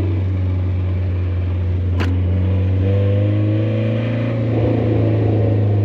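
Nissan 240SX engine running while the car is driven, heard from inside the cabin as a steady low drone, its note rising as it speeds up from about three seconds in. A single sharp click about two seconds in.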